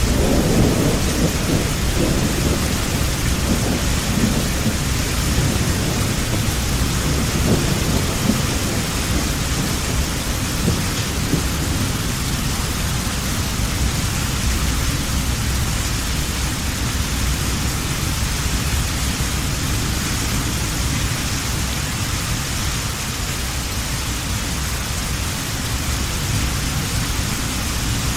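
Heavy rain falling steadily with rolling thunder rumbling low in the first several seconds and dying away, leaving the rain's hiss.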